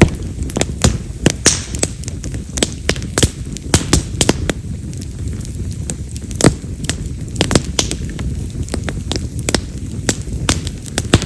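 Wild mountain cherry (yamazakura) firewood burning in an open fire, crackling with frequent sharp, irregular pops over a low steady rumble of flame. The loudest pops are firecracker-like snaps, typical of this wood.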